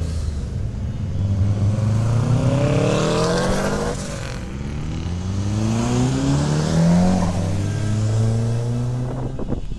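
Car engine revving hard as it accelerates, pitch climbing, breaking off sharply about four seconds in as at a gear change, then climbing again and dropping back about seven seconds in. Another engine runs steadily at a low note underneath, and a few sharp clicks come near the end.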